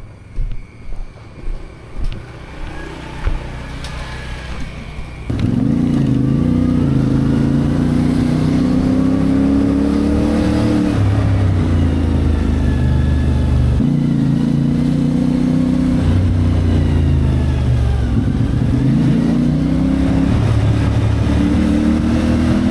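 CFMoto 450MT parallel-twin engine, quiet for about five seconds and then suddenly loud as the bike pulls away under throttle, its note rising and falling several times with throttle and gear changes.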